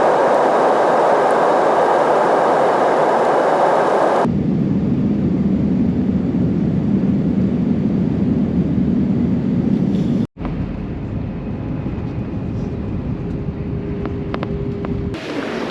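Steady vehicle travel noise in three clips joined by abrupt cuts: a loud even rush first, then a lower rumble about four seconds in, then a quieter hum from about ten seconds in.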